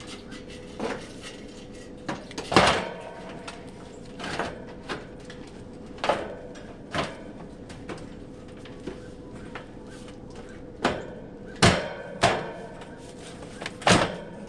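Irregular knocks and clanks of metal parts and hand tools being handled while a heat pump's outdoor unit is reassembled, about a dozen sharp strikes with the loudest near the end, over a faint steady hum.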